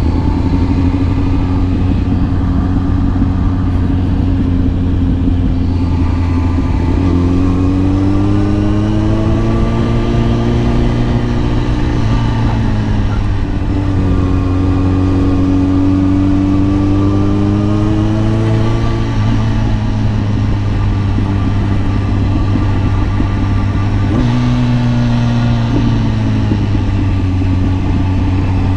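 Kawasaki ZX-10R's inline-four engine running under way. Its pitch climbs on the throttle about seven seconds in and again around fourteen seconds, and drops back near twelve and nineteen seconds. A short step in pitch comes near the end.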